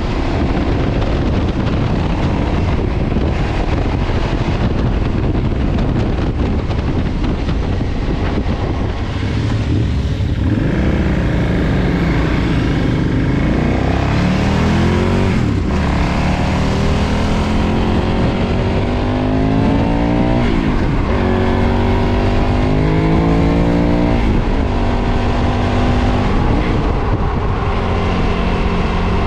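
KTM 990 V-twin with its stock exhaust: wind rushing over the microphone for about the first ten seconds, then the engine accelerating hard through the gears, its pitch climbing and dropping at each of about four upshifts.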